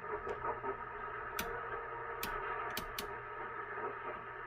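President Washington CB base radio's speaker putting out static and garbled, distorted-sounding sideband signals from distant skip stations, broken by several sharp clicks.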